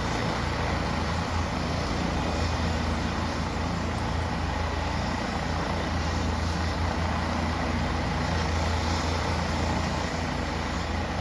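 Leonardo AW169 helicopter running on the ground just before take-off: its twin turboshaft engines and rotor make a loud, steady noise with a low hum underneath.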